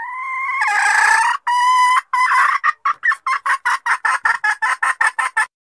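Female junglefowl (hen) giving her lure call: a rising note running into a long drawn call, then a fast run of short clucks, about six a second, that stops abruptly. It is the call used to draw wild cocks out of hiding.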